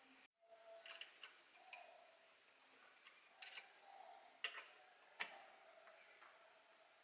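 Near silence with a few faint, sharp clicks and taps scattered through it, the loudest two near the middle.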